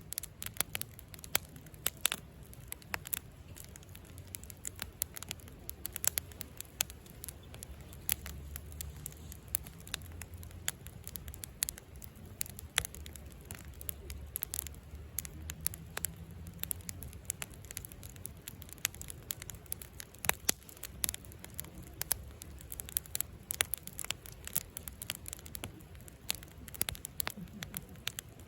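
Wood campfire crackling, with frequent sharp pops of burning wood over a low steady rumble.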